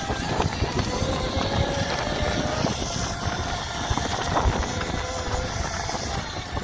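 Electric motorbike's motor whining at a fairly steady pitch, over a rough low rumble.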